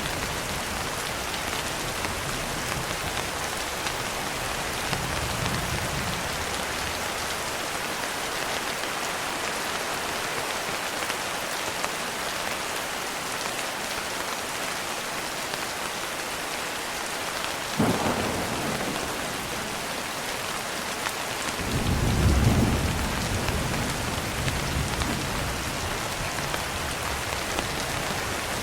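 Steady heavy rain falling on a surface, with thunder: a sharp crack about two-thirds of the way in, then a deep rumble a few seconds later that swells and fades.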